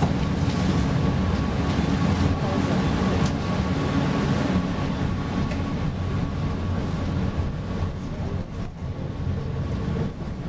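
PESA Fokstrot low-floor tram running, heard inside the passenger car: a steady low rumble of the wheels on the rails with a thin steady whine and occasional clicks. It gets quieter near the end.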